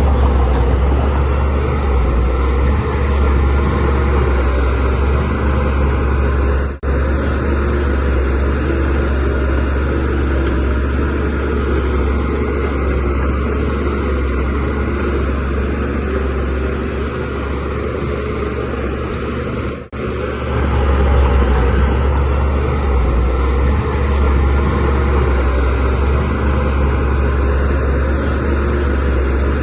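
Shantui DH17C3 bulldozer's diesel engine running steadily under load with a low drone as it works soil. The sound cuts out for an instant twice, about 7 and 20 seconds in.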